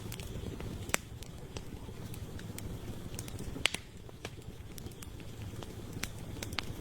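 Campfire crackling: scattered sharp pops of burning wood over a steady low rumble, with louder snaps about a second in and just past the middle.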